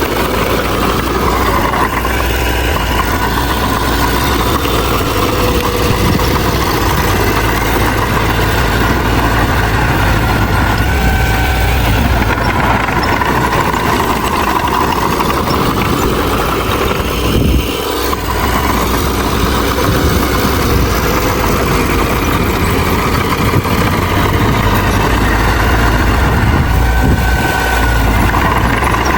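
A bulldozer's diesel engine running steadily under work, with one brief dip about eighteen seconds in.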